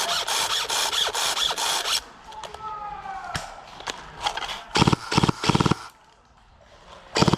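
Airsoft electric gun firing on full auto, a fast even rattle of shots. One long burst lasts about two seconds, several short bursts come about five seconds in, and one more brief burst comes near the end.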